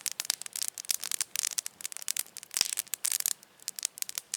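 Campfire crackling: a dense run of sharp pops and snaps, thinning out near the end.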